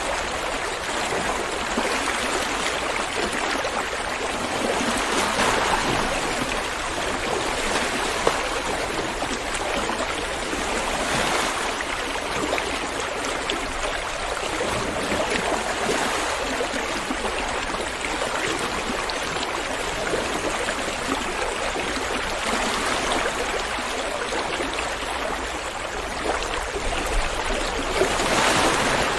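River water flowing over stones: a steady rushing and babbling, swelling slightly now and then, loudest near the end.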